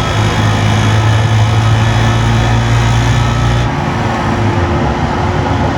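Steady mechanical noise at a motorcycle dyno: the cooling fan blowing and a small 50cc Honda Motra running on the dyno rollers. The low hum drops away about four seconds in, while the fan hiss carries on.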